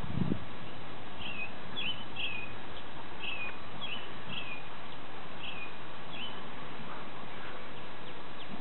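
A small bird chirping: about nine short, high notes, mostly in quick pairs, over a few seconds, over a steady outdoor hiss.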